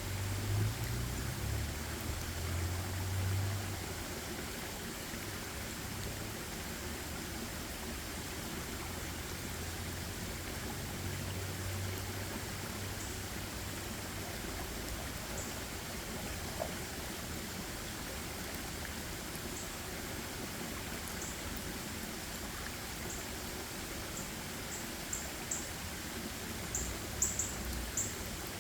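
Forest ambience: a steady, even rushing hiss, with low rumbles in the first few seconds and again about eleven seconds in. From about halfway, short high ticks grow more frequent toward the end.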